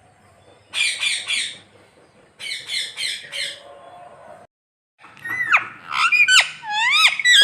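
A parrot squawking: three harsh calls about a second in, then four more a second later. After a sudden break, a run of sliding whistled tones, falling and rising in pitch, follows near the end.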